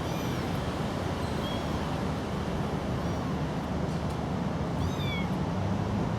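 A small kitten mewing: several short, thin, high-pitched mews, the loudest about five seconds in, over a steady low rumble.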